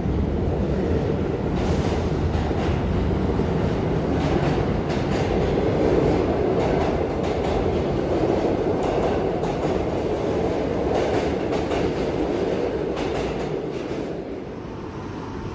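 New York City subway train running, heard from inside the car: a steady rumble with the wheels clicking and clattering over the rail joints, easing off a little near the end.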